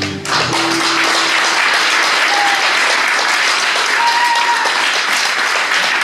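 Concert audience applauding at the end of a song, while the last acoustic guitar notes ring out and die away in the first second or so.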